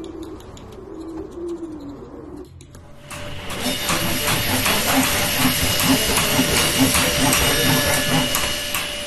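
A dove coos for the first couple of seconds, then cuts off. About three seconds in, a loud steady hiss takes over, with a few thin steady tones in it and a faint low pulse about three times a second.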